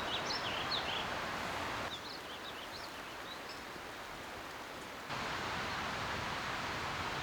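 Steady rain falling, with a small bird chirping in short high notes through the first half. The rain noise drops suddenly about two seconds in and comes back up about five seconds in.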